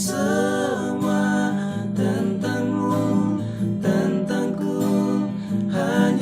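Acoustic guitar music with a voice carrying a gliding melody over it, without clear words.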